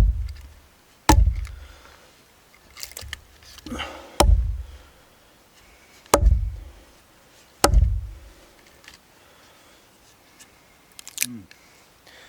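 Firewood being chopped: five heavy blows, each a sharp crack followed by a dull thud, with a few lighter knocks between. The wood is punky, soft and partly rotten.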